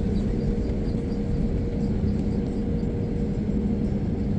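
Steady low rumble of an airplane's engines with a constant droning hum, unchanging throughout.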